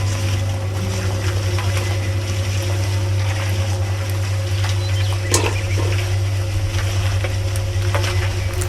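Small electric motor of a miniature DIY machine running with a steady low hum, with one sharp click about five and a half seconds in.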